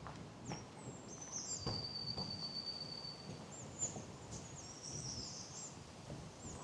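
Small songbirds singing in high, thin notes, one holding a long steady note for about two seconds, with short quick phrases after it. Light footsteps on a path sound now and then underneath.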